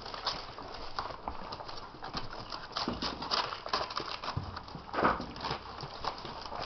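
Puppies scampering about, their paws and claws making a quick, irregular patter of light taps and clicks. There is one louder thump about five seconds in.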